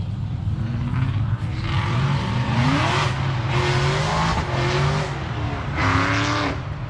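Car engine running with a steady low drone and revved in several surges, its pitch climbing about two to three seconds in and again near the end.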